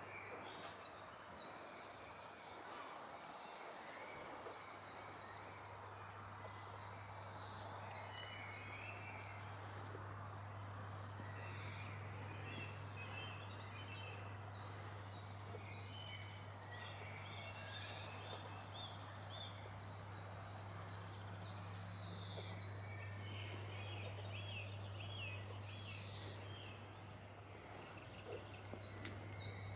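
Several songbirds singing, with quick whistled trills and falling notes, over a steady low hum.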